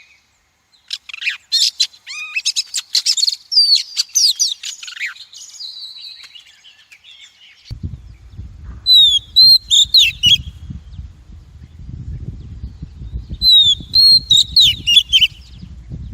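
Female oriental magpie-robin singing: a fast, varied run of chirps and whistles, then two short phrases of slurred whistles a few seconds apart. A low rumble lies underneath from about halfway.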